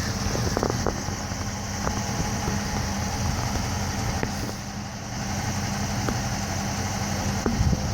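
A 5.7-litre Hemi V8 in a 2015 Dodge Challenger R/T idling steadily, with a low, even hum.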